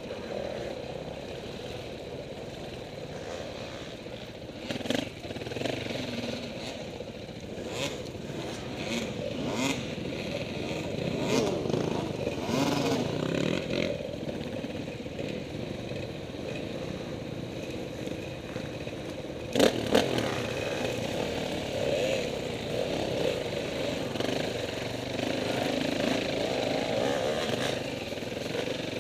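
KTM 450 dirt bike engine running off-road, its revs rising and falling with the throttle. Scattered knocks and clatters throughout, with the loudest sharp knock about twenty seconds in.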